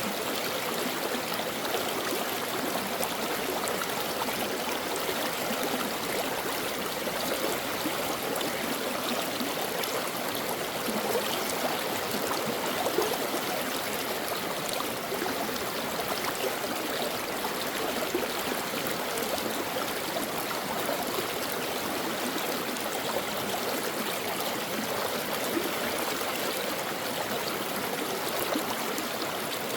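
Brook flowing steadily, an even babble of running water that does not change.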